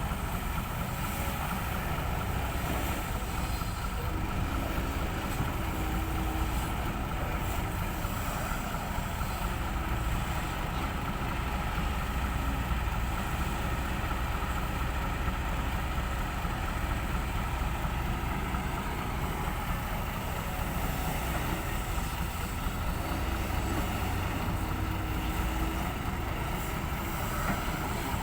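Heavy diesel engines running steadily, from an excavator loading dirt into a ten-wheel dump truck, with a constant low rumble.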